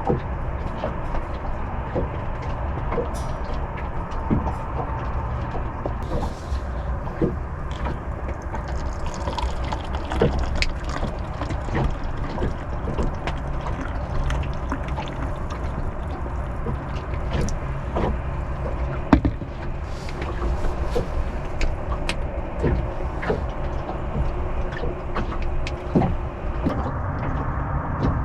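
Water lapping against a small sailboat's hull, with scattered small knocks and a steady low rumble.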